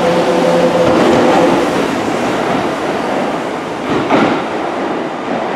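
Kintetsu limited express train pulling out of the platform: a steady motor hum that fades in the first couple of seconds as the cars pass, then rumbling wheel-on-rail noise with a sharp clack about four seconds in.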